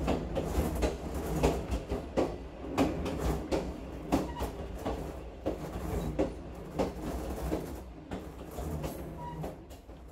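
Long-distance passenger train running on the rails, heard from inside a carriage: a steady low rumble with frequent irregular clacks and rattles from the wheels and the car.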